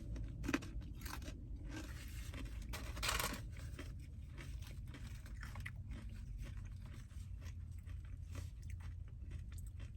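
A person chewing food close to the microphone, with small crunching clicks. There is a short, louder rustling noise about three seconds in.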